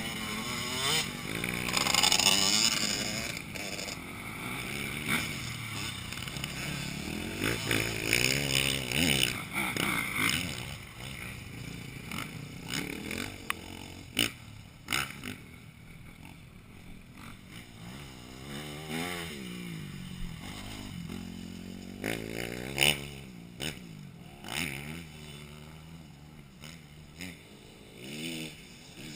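Motocross bikes revving up and down as they ride the track, their engine notes rising and falling in pitch over and over. The engines are loudest through the first ten seconds as bikes pass close, then fainter and farther off.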